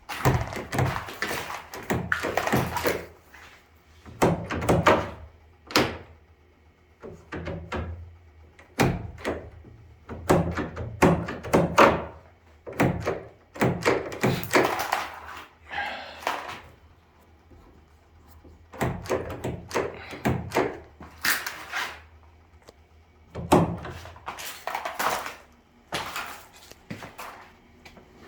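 Door-handle replacement work: repeated irregular thunks, knocks and scrapes of the door and its handle and latch hardware being handled and fitted.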